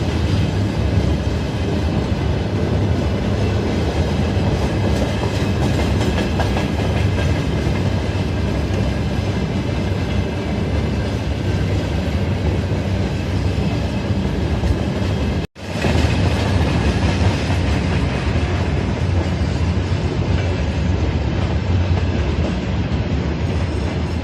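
TEM2 diesel shunting locomotive with a freight train on the move: the steady drone of its six-cylinder diesel engine together with the rumble and clack of wagon wheels on the track. The sound breaks off for an instant about two-thirds through and then carries on.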